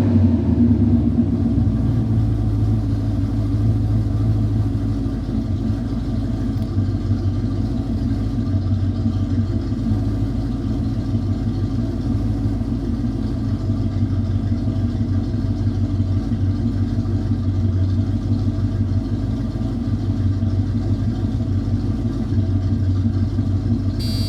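1986 Chevy C-10's 305 small-block V8 idling steadily, the level easing down a little in the first few seconds after a rev.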